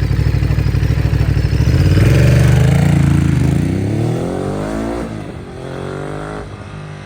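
Ducati Monster's V-twin through a Termignoni exhaust, loping at low revs, then pulling away hard at full throttle. The revs climb and drop back with each of several quick upshifts, loudest as it takes off, then fade as the bike gets farther away.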